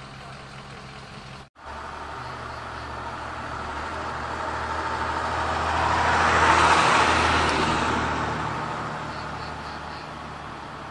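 A road vehicle driving past close by: its tyre and engine noise builds for several seconds, peaks around the middle, then fades away. A low, steady engine hum runs underneath.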